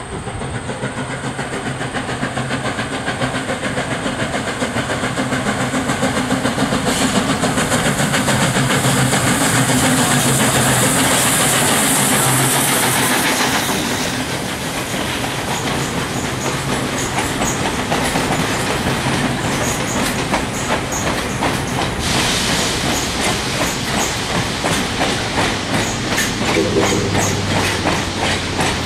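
A train going by on jointed track. A strong hiss comes in about seven seconds in and stops near fourteen seconds, over a steady low engine tone. After that the car wheels click over the rail joints in a steady repeating rhythm.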